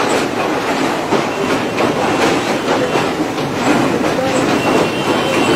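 Passenger train running over the rails, its wheels and carriages giving a dense, steady run of clanks and rattles, with a faint thin squeal near the end.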